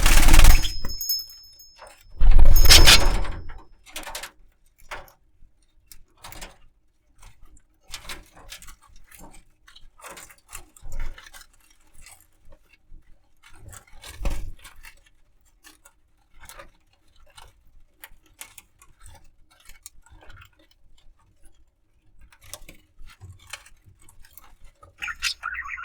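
Budgerigar playing on a rope: small scattered clicks, taps and scratches, with two loud jangling rattles in the first three seconds and a couple of sharper knocks later.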